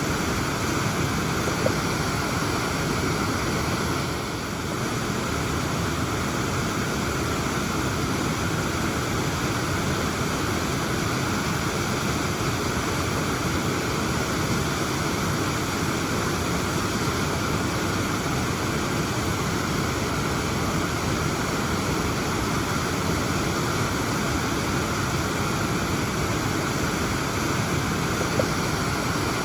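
Waterfall rushing: a steady, even roar of falling water, with a brief dip in level about four seconds in.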